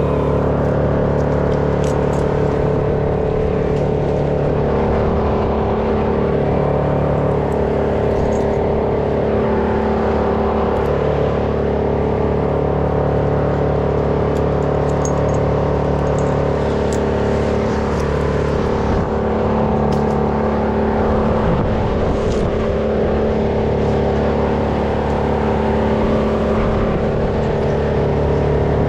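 Stihl 201 chainsaw's two-stroke engine running steadily at a constant speed, its pitch shifting slightly every few seconds.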